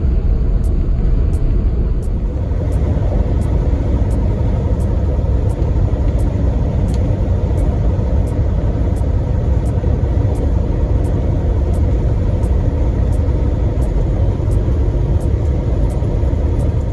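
Semi-truck driving, heard from inside the cab: a steady, loud low rumble of diesel engine and road noise.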